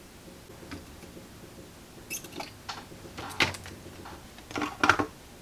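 Hand tools and parts being handled on a radio chassis during a capacitor replacement: a series of short clicks and scrapes, the loudest about three and a half and five seconds in.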